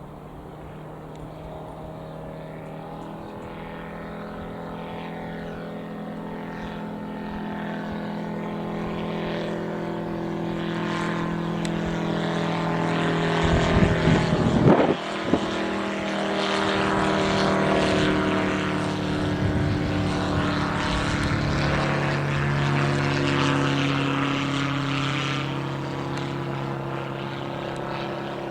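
Zenair CH-601HD Zodiac light aeroplane flying past: its single piston engine and propeller drone grows louder and peaks about halfway through. The pitch drops as it passes, and the sound then slowly fades.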